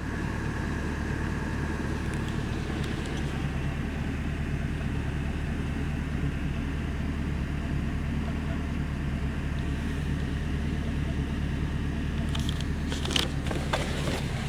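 2011 Camaro SS's 6.2-litre L99 V8 idling steadily, with a few sharp clicks near the end.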